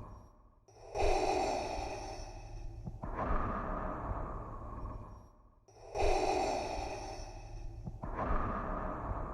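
Darth Vader's respirator breathing sound effect. Two full in-and-out breath cycles, each breath lasting about two seconds. Each cycle starts after a brief pause, once near the start and again about five seconds in.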